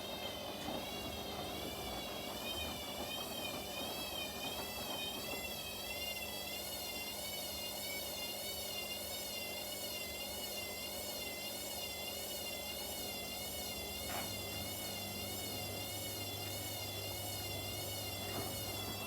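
Washing machines running: a high motor whine that wavers up and down about once a second over a steady low hum. A deeper hum joins about 14 seconds in, and near the end the whine falls in pitch as the motor slows.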